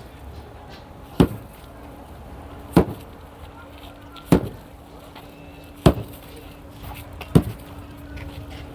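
Heavy hand-tool blows striking a structure being demolished, five evenly spaced strikes about one every second and a half. A faint steady hum starts a few seconds in.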